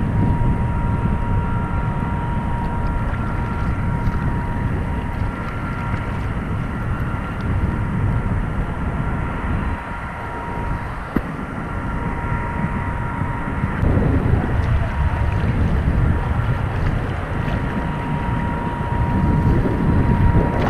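Wind buffeting the microphone in a low, uneven rumble. A thin, steady high-pitched tone runs underneath most of the time, with one sharp click about halfway through.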